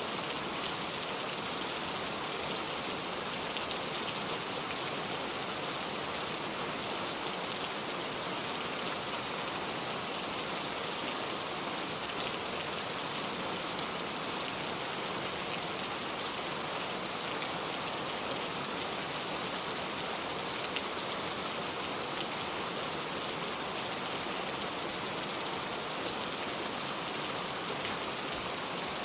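Heavy pouring rain, a steady dense hiss of drops with faint scattered individual drop ticks, unchanging throughout.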